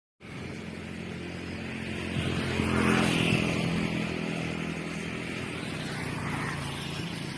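Twin-tub washing machine's wash motor humming steadily, a sign that it gets power but does not turn.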